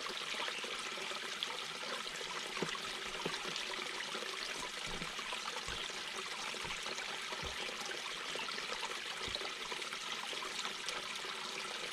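Mountain brook babbling steadily over rocks, with a few soft low gurgles and plops mixed in.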